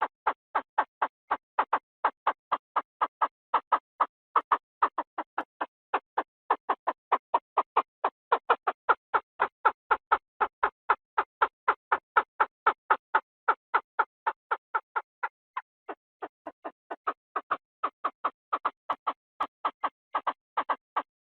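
Chinese francolin calling: a fast, unbroken run of short, clipped notes, about four a second, with a brief thinning of the notes around three-quarters of the way through.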